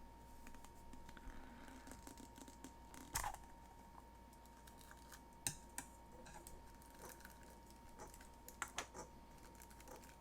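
Faint handling of small plastic toy eggs and diecast toy cars: a few scattered sharp clicks and taps, the loudest about three seconds in, over a faint steady tone.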